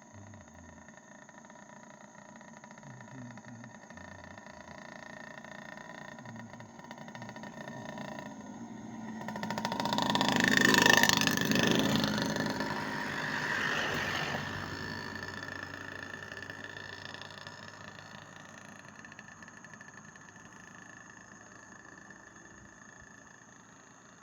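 A motor vehicle passes by, growing louder to a peak about eleven seconds in and then slowly fading away.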